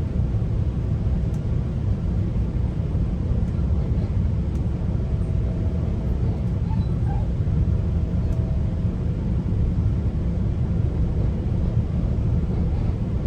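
GO Transit commuter train running at speed, heard from inside a coach: a steady low rumble of wheels on rail with a faint hum and a few light clicks.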